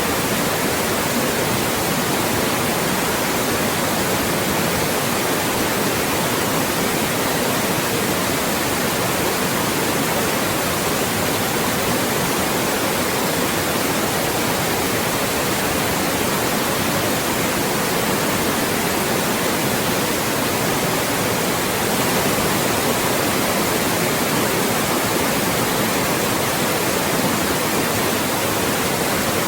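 Loud, steady synthetic white noise, an even hiss across all pitches with no change, used as a speech blocker to mask voices.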